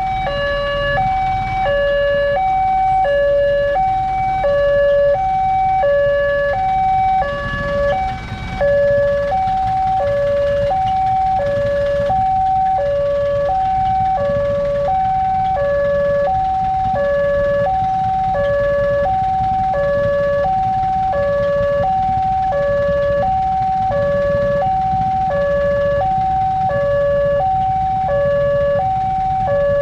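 Railway level-crossing warning alarm sounding its two-tone signal, alternating steadily between a high and a low tone, each held about half a second, warning that a train is approaching and the gates are closed. A low rumble runs beneath it.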